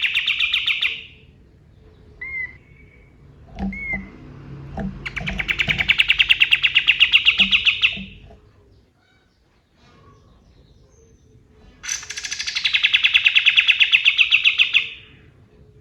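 Kapas tembak bulbul singing in rapid, rattling trills of fast repeated notes, each about three seconds long, three times, with a couple of short upslurred notes between them. A few low knocks sound under the song in the middle.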